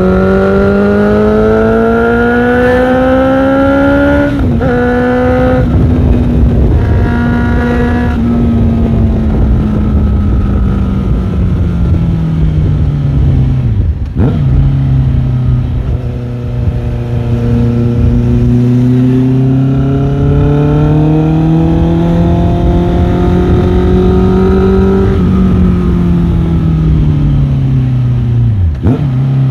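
Motorcycle engine heard from on board while riding: the revs climb, drop at a gear change about four seconds in, sag, dip sharply for another gear change about halfway, climb again and ease off near the end with a last shift. A low wind rumble runs under the engine.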